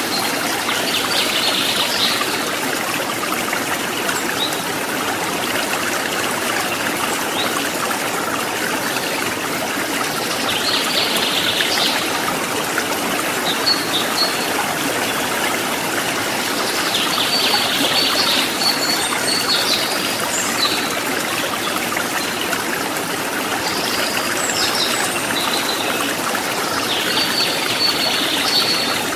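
Stream water trickling and flowing in a steady rush. Brief high chirps break through every several seconds.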